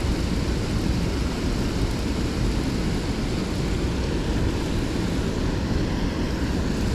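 Steady, low rushing rumble of water pouring out through a dam's outflow chute.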